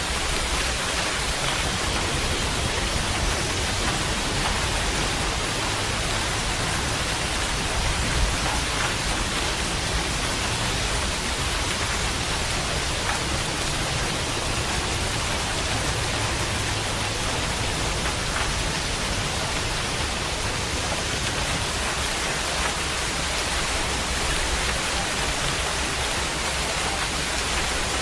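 Steady heavy rain, a dense even hiss of falling drops with a low rumble underneath.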